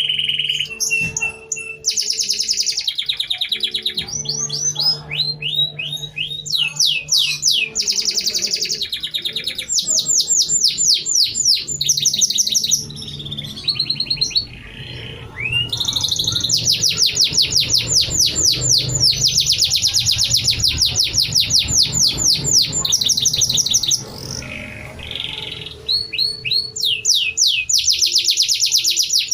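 Domestic canary singing one long, nearly unbroken song of fast rolling trills and chattering phrases, broken only by a few short pauses. The song is laced with learned bar-winged prinia (ciblek) phrases.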